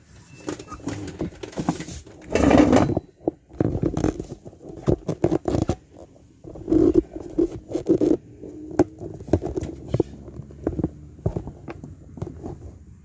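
Hand tools and metal rear drum-brake parts clicking, knocking and scraping in an irregular run while brake shoe hold-down clips are worked out with pliers, with a louder scrape about two and a half seconds in.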